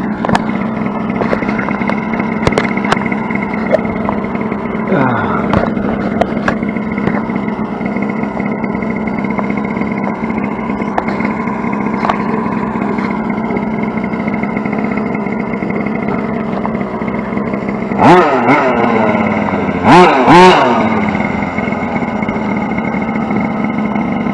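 RC short-course truck running over a steady hum, with a falling pitch glide about five seconds in and loud bursts of motor revving, pitch wavering up and down, about 18 and 20 seconds in.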